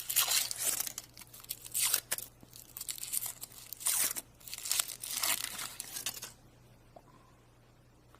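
Foil wrapper of a chocolate surprise egg being torn open and crinkled, in a run of short rips that stop about six seconds in.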